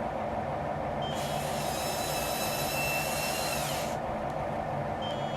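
Radio-controlled construction loader working, its small electric motors humming steadily. About a second in, a high hiss with a whine starts and runs for about three seconds, the whine falling in pitch as it stops.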